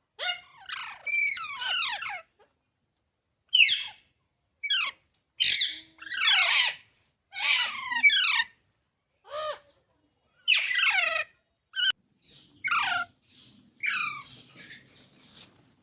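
Baby parrots squawking: a dozen or so short, harsh calls, each falling in pitch, with short gaps between them.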